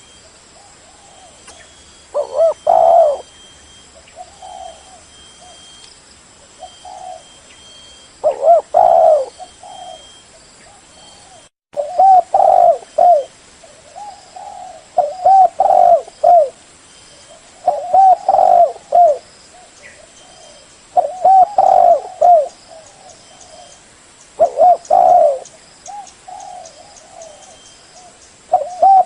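Spotted dove cooing: short phrases of low, rolling coos repeated every few seconds.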